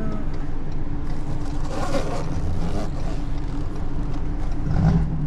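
Car engine running steadily at low revs, rising briefly near the end.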